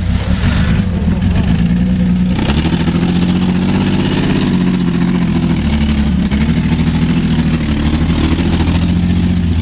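Vehicle engine running steadily, its pitch wavering up and down with the throttle and shifting about two and a half seconds in.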